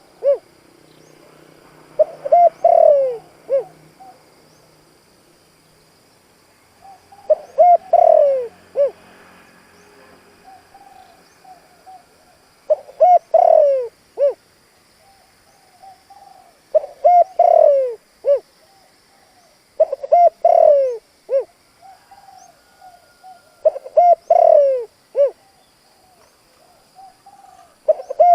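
Spotted dove cooing: a short phrase of several notes, repeated roughly every four seconds, with softer low coos in between. This is a decoy dove's full challenge call, the kind used to lure wild spotted doves.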